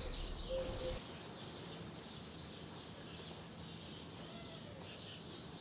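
Faint background ambience with small birds chirping quietly.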